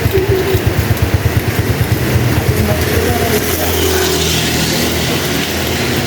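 A small motorcycle engine running close by over steady heavy rain, with an even low pulsing that smooths out about three seconds in.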